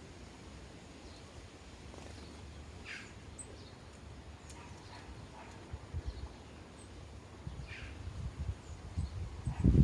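Sparrows giving a few short chirps, about three seconds in and again near eight seconds, over a low steady rumble. Irregular low thumps build up in the last few seconds and become the loudest sound.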